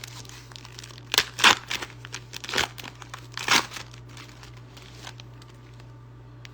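Foil card booster pack wrapper crinkling as it is handled and ripped open, in a few sharp crackles, the loudest about a second and a half and three and a half seconds in, then fading away. A steady low hum lies underneath.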